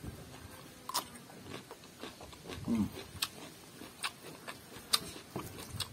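Close-up chewing and biting of a mouthful of food, with sharp wet mouth clicks and smacks about once a second and a short hummed sound about three seconds in.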